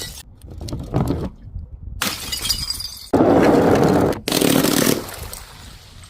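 Glass bottles shattering, one after another: a few short cracks, then several crashes, the loudest about three and four seconds in.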